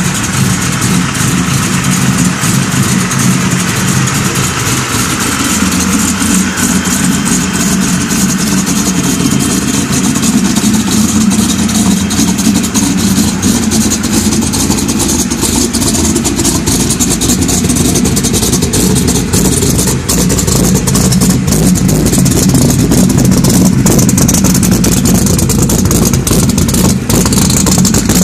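Car engine running at idle through freshly installed Hooker headers, a 4-inch Mufflex exhaust and a Magnaflow muffler, on its first start-up with the new system. The exhaust note is steady and deep, swelling slightly now and then.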